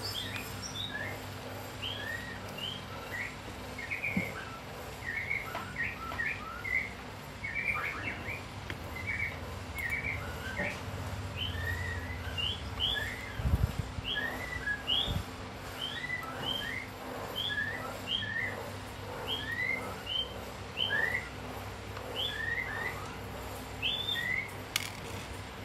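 A small bird chirping over and over in short rising notes, one or two a second. A couple of dull knocks come about halfway through.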